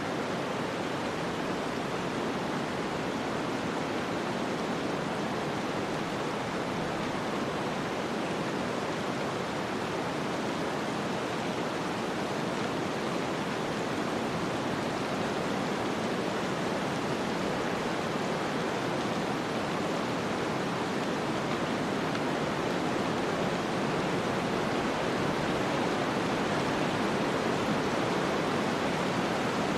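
Snowstorm ambience: a steady, even rushing noise of blowing wind and snow, with no distinct events, swelling slightly near the end.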